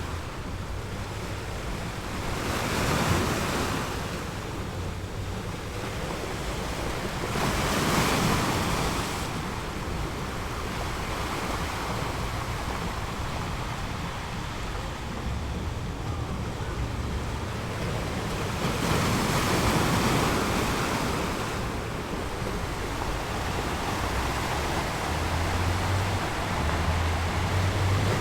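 Sea waves breaking on a rocky shore: a steady wash of surf that swells into louder breakers about three seconds in, again around eight seconds, and for a longer stretch past the middle, with a low rumble of wind.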